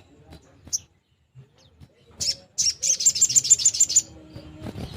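Spiderhunter (sogok ontong) calling: a short sharp call, then a fast, high rattling burst of about ten notes a second that lasts about a second and a half.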